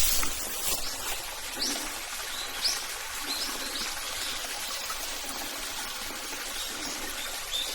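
Steady trickling of running water, with a few short bird chirps about two to four seconds in.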